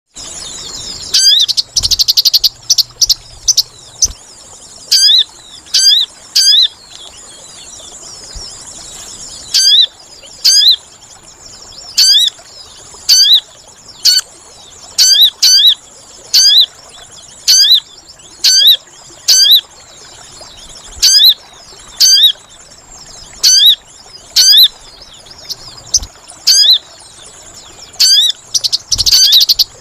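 Recorded call of the sogon bird, played as a lure. Sharp, very high, down-slurred notes come in groups of one to three, about once a second. A fast buzzy trill sounds near the start and again near the end.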